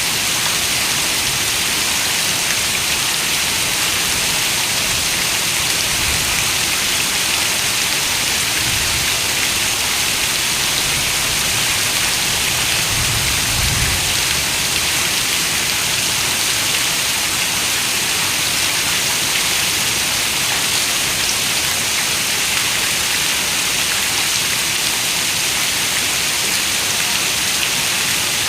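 Heavy rain falling on a window, a steady, dense hiss that holds even throughout.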